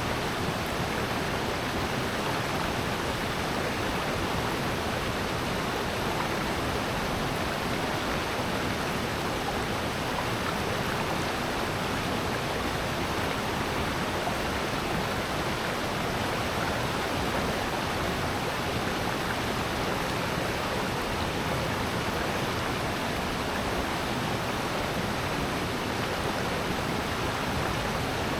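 Rushing water of a mountain valley stream: a steady, even rush with no breaks or changes.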